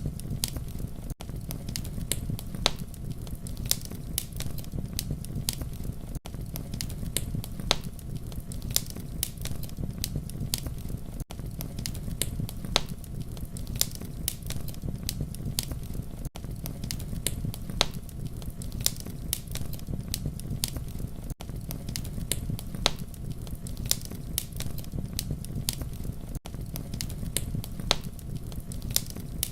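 Wood fire burning: a steady low rumble of flames with frequent sharp, irregular crackles and pops. There is a brief dip in the sound about every five seconds.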